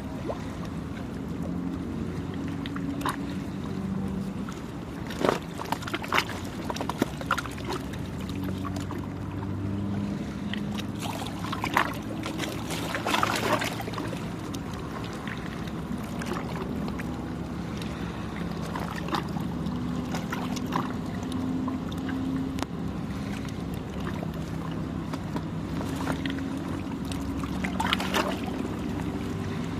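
Small sea waves lapping and splashing at the shore, with a low engine hum of passing boats or traffic underneath. A few louder splashes come through, about five seconds in, around twelve to fourteen seconds, and near the end.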